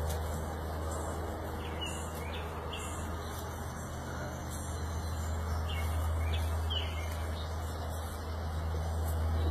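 Outdoor ambience: a few short bird chirps, scattered through, over a steady low rumble.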